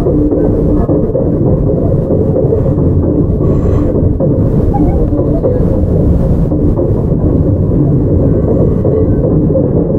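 Steady running noise inside a JR 681 series electric train car, a continuous rumble of wheels on rail with a faint steady tone underneath.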